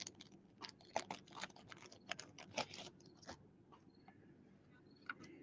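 Faint clicking and crackling of plastic trading-card holders being handled and opened: a quick run of small clicks for about three seconds, then only a few.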